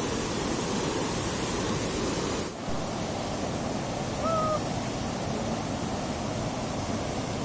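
Steady rush of fast-flowing river water, with one short high call about four seconds in.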